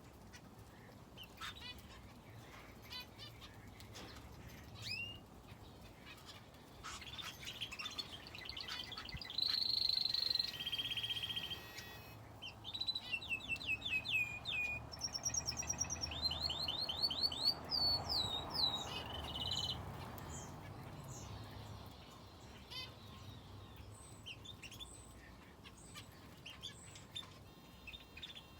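Aviary finches and a canary chirping and singing. A loud run of fast repeated song notes comes about halfway through, with buzzy held notes just before it and scattered short chirps around it.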